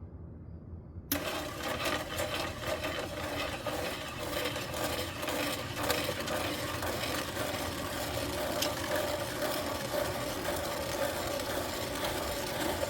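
Electric concrete mixer switching on about a second in and running steadily, its turning drum churning a batch of concrete mix with a steady hum and scattered rattling clicks.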